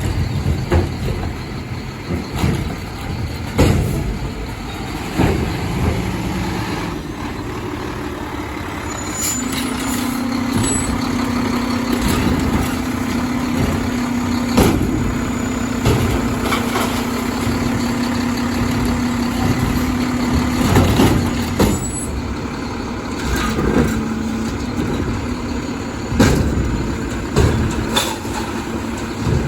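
Garbage truck working its route: diesel engine running, with repeated clanks and bangs and a steady whine for about ten seconds in the middle.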